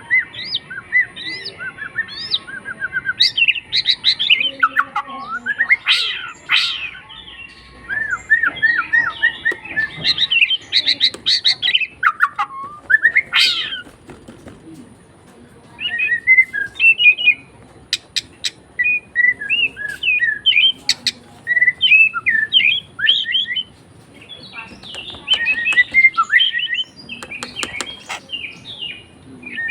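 A tame pet songbird singing a long, varied song of chirps, whistled notes and quick trills, with a couple of short pauses.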